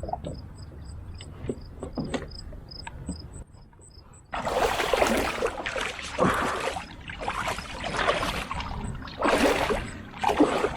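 Kayak paddle strokes splashing and swishing in the water, a stroke about every second, starting about four seconds in after a quieter stretch. Insects chirp in a steady high rhythm throughout.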